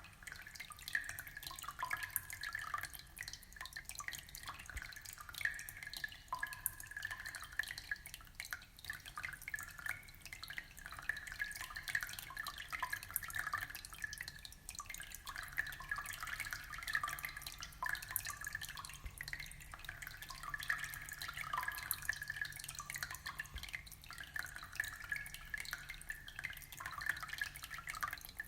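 Aquarium water trickling and bubbling steadily, a continuous patter of small droplet-like plinks.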